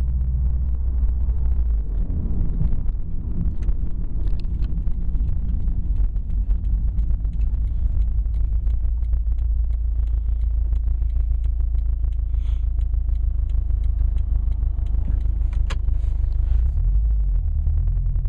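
2011 Subaru WRX sedan's turbocharged flat-four engine running: a steady idle, then from about two seconds in a rougher, noisier stretch with rapid ticking and a few sharper clicks, settling back to a steady idle near the end.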